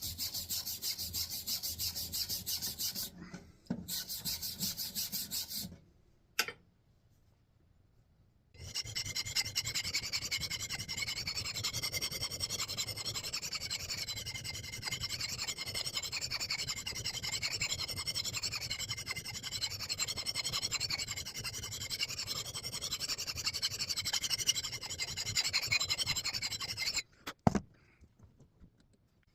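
Hand file rasping over the steel edge of a 3.5 lb axe head in quick strokes, first in two short runs, then after a pause of a couple of seconds in one long steady run with a high ringing note through it, ending in a sharp click. The steel is hard and rusty enough that the file struggles to cut it.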